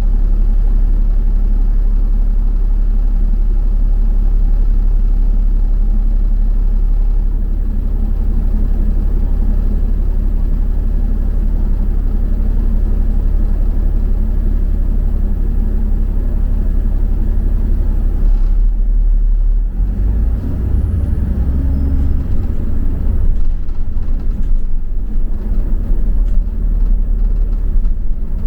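Double-decker bus running, heard from on board as a steady low engine and road rumble. About two-thirds of the way in, the rumble changes and turns uneven.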